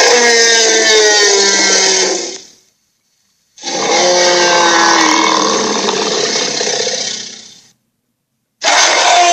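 Electronic dragon toy playing its sound effects through a small speaker: one sound ends about two and a half seconds in, a second lasts about four seconds, and a third starts near the end. Each has a pitch that slides downward.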